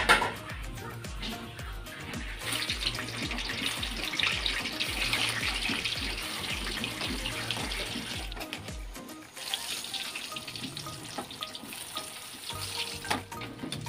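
Tempe slices deep-frying in hot oil in a wok, a steady sizzle that is strongest through the middle and eases off about two-thirds of the way in, over background music with a steady beat. A sharp click at the very start as the gas burner is lit.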